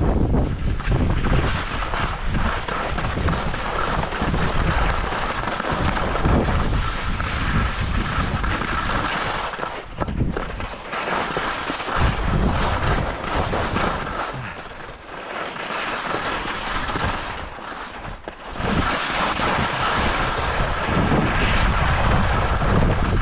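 Wind buffeting the microphone with a heavy rumble, over the scrape of skis on icy packed snow. It eases briefly about halfway through and again later on.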